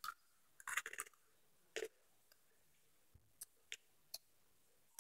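Faint, scattered crunches and clicks of popcorn being chewed, a few at a time with short gaps between.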